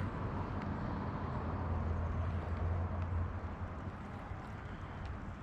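Steady rain hiss with a low engine hum, like a passing vehicle, that fades out about three seconds in.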